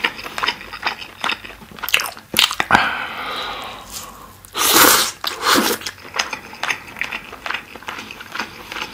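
Close-miked wet chewing of glazed grilled chicken skewer meat, with many small clicks and lip smacks. A louder burst about halfway through as a fresh piece is bitten off the skewer.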